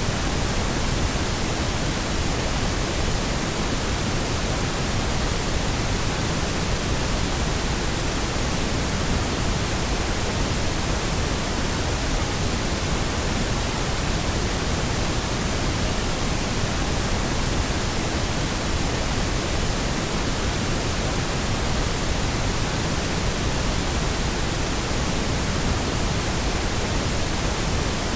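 Steady pink noise: an even, unchanging hiss spread across the whole range, with no breaks or events.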